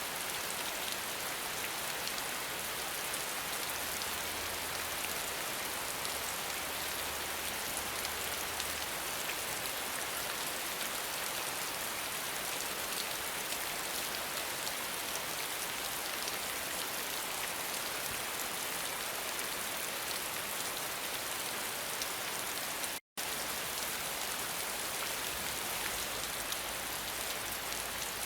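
Steady rain falling, a dense even patter of drops. It cuts out for an instant about three-quarters of the way through.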